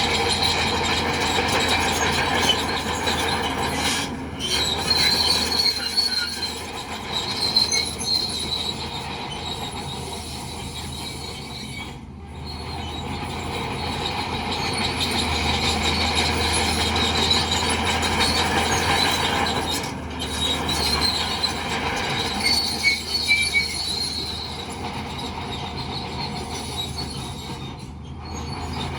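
Crawler bulldozer at work: its steel tracks squeal and grind over a steady diesel engine drone. The squeal dips briefly about every eight seconds, then comes back.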